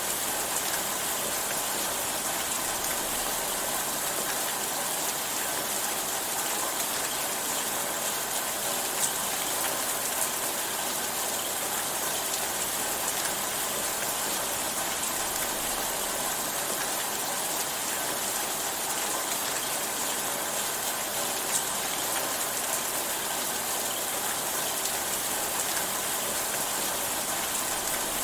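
Steady rainfall, a constant even hiss of rain on a surface with a few faint drop ticks.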